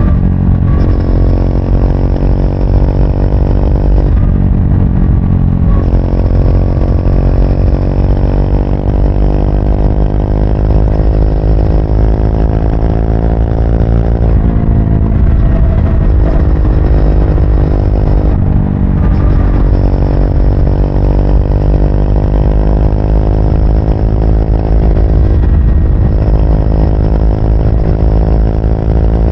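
Triumph Speed 400's single-cylinder engine pulling under way on the road. Its pitch climbs steadily and falls back at gear changes, four times in all, over a steady low rumble.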